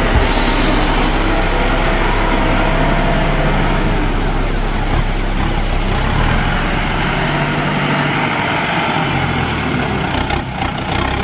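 Kubota M8540 tractor's diesel engine running steadily under load while pulling a five-disc plough through the soil.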